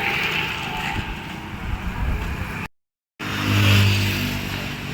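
Vehicle engine running amid outdoor noise. The sound cuts out completely for about half a second near the middle, then comes back with a louder, steady low engine hum.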